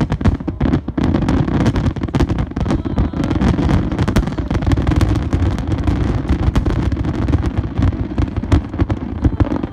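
Fireworks display: many shells bursting in quick succession, with dense sharp crackling over a continuous low rumble.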